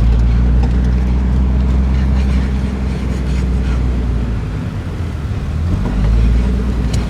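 Car engine and road noise heard from inside the cabin while driving: a steady low drone that eases off about five seconds in and then builds again.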